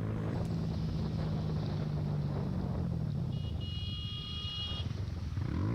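Motorcycle engine running with wind noise on the microphone. Its pitch falls after about two and a half seconds, then rises sharply near the end as it revs. A high steady tone sounds for about a second and a half past the middle.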